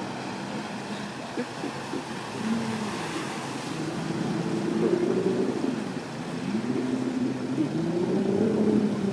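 An engine being revved up and down, its pitch rising, dipping about six seconds in, then climbing again and getting louder near the end.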